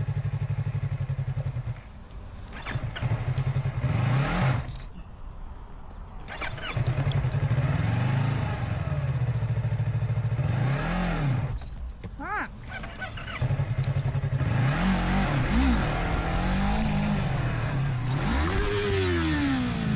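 Motorcycle engine idling and then being revved repeatedly, its pitch rising and falling in a series of throttle blips. A long rev climbs and falls off near the end.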